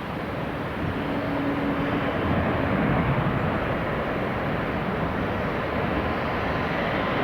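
Jet engine roar of an arriving Airbus A330-300 airliner, growing louder over the first few seconds and then holding steady.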